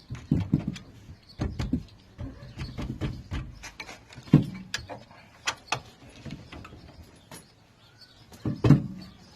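Irregular knocks and clicks of metal parts and tools being handled while a driveshaft and radius arm are bolted back onto a car's rear suspension, with a few louder clanks.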